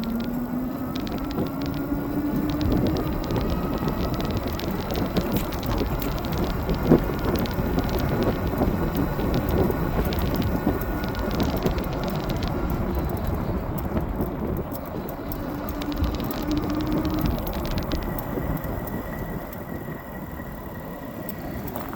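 Dual-motor fat-tyre electric bike riding on a wet road: a steady rush of wind and tyre noise, with the electric motors' faint whine rising in pitch over the first few seconds and coming up again briefly about two-thirds of the way through.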